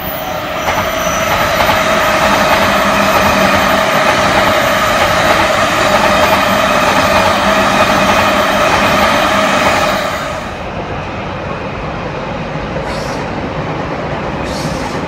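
A JR East E657 series electric limited express train passing close by at speed: a loud, steady rush of wheels on the rails with a steady hum in it. About ten seconds in, the sound drops to a quieter, duller train rumble.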